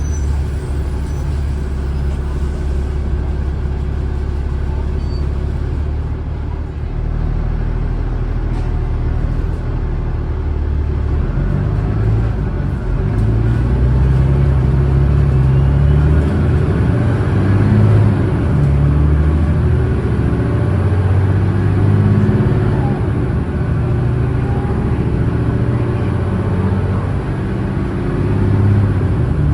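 Cummins ISLe six-cylinder diesel engine of an Alexander Dennis Enviro500 double-decker bus running steadily, then pulling hard and getting louder from about eleven seconds in. Its low pitch steps up and down several times as the bus accelerates under load.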